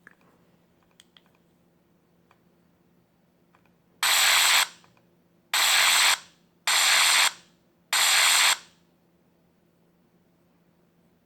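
iPhone 6 giving out a weird sound: four bursts of harsh, rasping noise, each about half a second long and fading quickly, the first about four seconds in and the rest coming roughly every second and a quarter.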